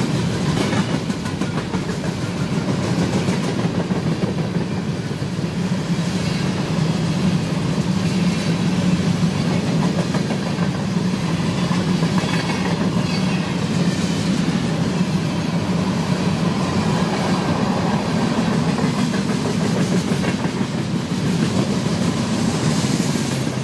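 Freight train cars rolling past, a steady rumble of steel wheels on rail with repeated clicking as the wheels pass.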